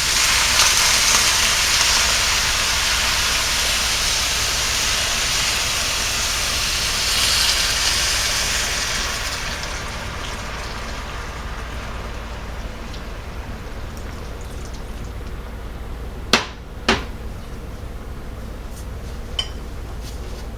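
White wine sizzling as it is poured into a hot tagine around the chicken, loud for about nine seconds, then dying down to a quieter simmering hiss. Two sharp clicks about four seconds before the end, and one more near the end.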